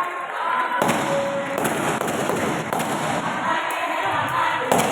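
Spectators cheering and shouting in a sports hall, a dense roar that breaks out suddenly about a second in, with sharp cracks now and then.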